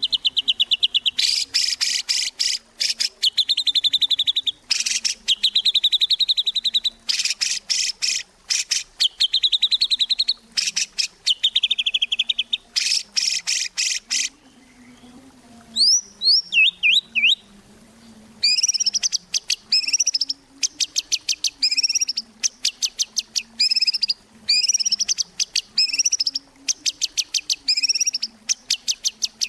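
White-rumped shama (murai batu) in full song: loud phrases of rapid, stuttering notes broken by short gaps. About halfway the song pauses for a few quick sweeping whistles, then turns to a long run of short, repeated phrases.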